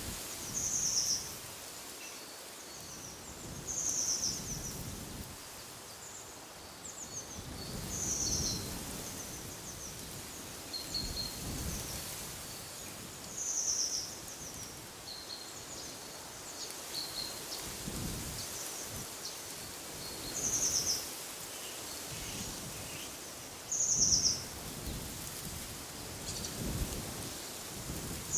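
Birds calling outdoors: one short, high call repeated about six times at irregular intervals of a few seconds, with softer, quicker chirps between. Wind gusts in low swells underneath.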